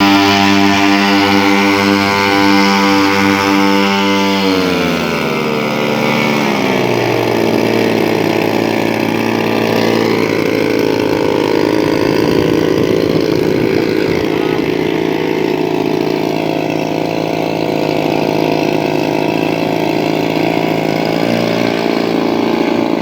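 Engines of a large radio-controlled Douglas C-47 Skytrain model running at a steady, higher speed, then throttled back about five seconds in, the pitch falling over a couple of seconds to a steady idle.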